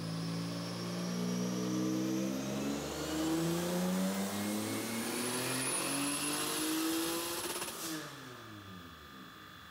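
Boosted, stroked Honda J35Y2 V6 in a 9th-gen Accord making a wide-open-throttle dyno pull: the engine note climbs steadily in pitch with a high whine rising alongside it. About eight seconds in the throttle closes and the engine winds down.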